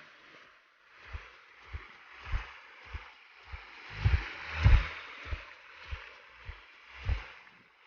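Footsteps at a steady walking pace, about one every 0.6 s, heard as low thuds, over a steady rushing hiss.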